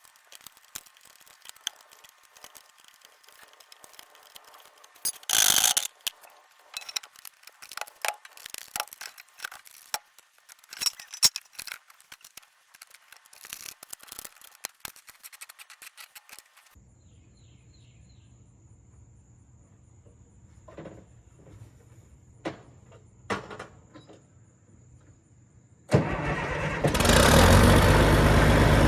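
Scattered clicks and knocks of hands-on work, then a faint steady hum with a few knocks. About 26 seconds in, the Caterpillar D6C's D333 six-cylinder turbo diesel starts up suddenly and runs loud.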